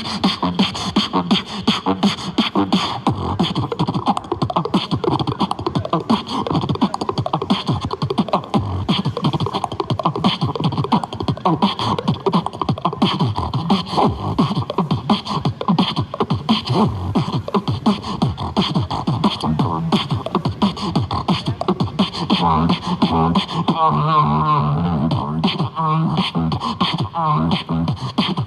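Beatboxing: a dense, fast, unbroken run of mouth-made kick, snare and hi-hat sounds. From about two-thirds of the way through, wavering pitched vocal tones are mixed in over the beat.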